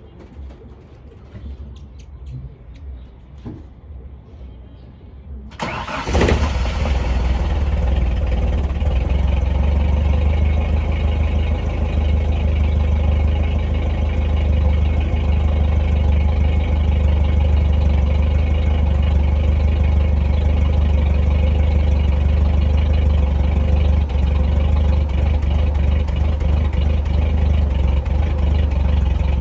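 Toyota 3Y 2.0-litre four-cylinder petrol engine started from cold: a few faint clicks, then about six seconds in it catches abruptly and settles into a steady fast idle that runs on with a strong low hum.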